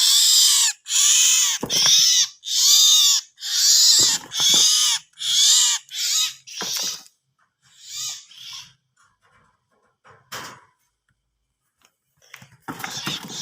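A bird giving a rapid run of harsh, loud screeching calls, about one every 0.7 seconds for the first seven seconds, then weaker, scattered calls, a short lull, and another burst near the end.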